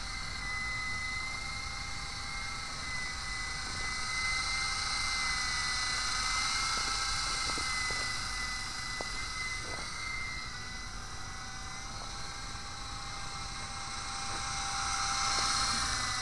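Silverlit V-150 toy RC helicopter in flight: the electric motor and rotors give a steady high whine whose pitch wavers a little. It grows louder and softer as the helicopter moves about.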